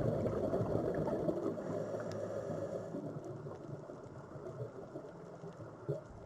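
Sea waves washing in: a surge of churning water that is loudest at the start and slowly recedes over the following seconds.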